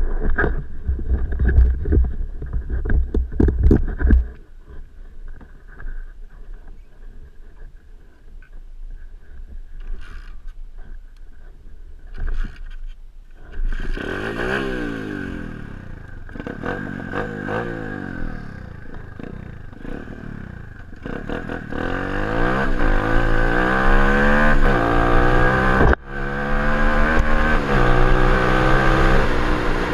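Orion CRF37-2 125cc pit bike's four-stroke single revving up and down several times, then accelerating hard, its pitch climbing and dropping at each gear change. The first few seconds hold a loud low rumble with knocks on the camera microphone.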